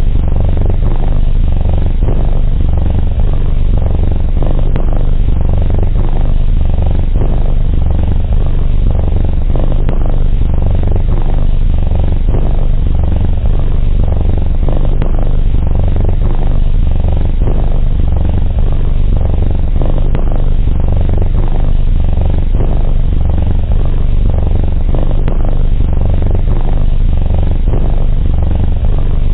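Domestic cat purring, a steady low rumble that swells and eases in a slow breathing rhythm.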